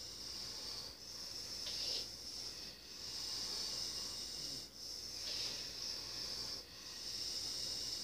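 A steady high hiss that drops out briefly about every two seconds.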